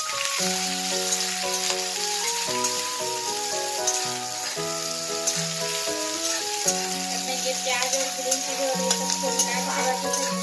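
Chopped onions and green chillies sizzling in hot oil in a kadhai, stirred with a spatula. Background music with a stepping melody plays throughout.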